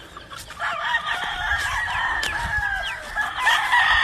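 Many gamefowl roosters and chickens crowing and clucking over one another, with calls overlapping throughout. The flock is hungry and waiting to be fed.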